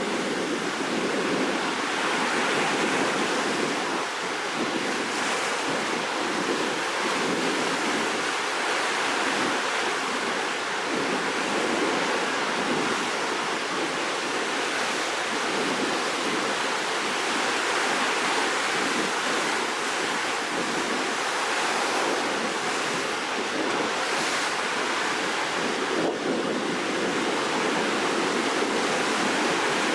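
Rough, storm-stirred sea surf ahead of a typhoon: waves washing and breaking in a continuous, steady rush, with wind.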